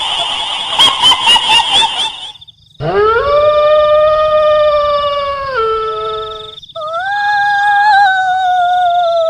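Kuntilanak ghost sound effect: a shrill, rapidly pulsing cackle that cuts off about two seconds in, then two long howls, the first rising and held, the second slowly falling away. A faint steady high tone runs underneath.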